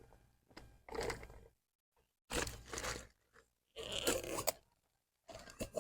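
Four short bursts of crunching and rustling close to the microphone, each under a second long.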